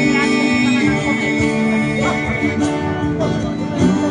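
Live band playing an instrumental passage between sung lines, with sustained chords over a steady beat.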